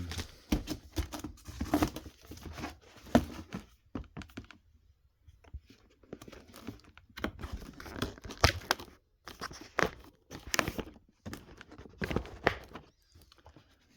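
Packaging being handled and torn open: irregular crinkling, tearing and knocks, with a pause of a second or so a little after four seconds in.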